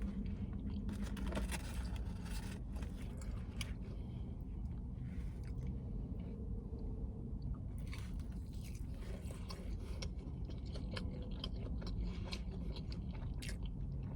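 A person chewing and biting food close to the microphone: scattered wet clicks and crunches over a steady low hum.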